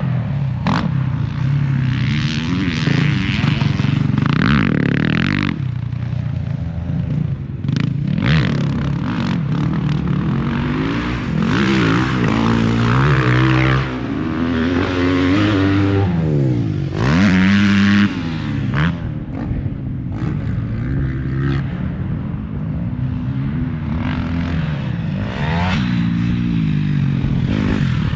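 Motocross dirt bike engines running hard around the track, their pitch rising and falling again and again as the throttle is opened and shut.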